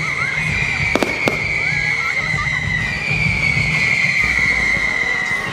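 Fireworks display going off: two sharp bangs about a second in, over a continuous high hissing whine that slowly falls in pitch and starts again every couple of seconds.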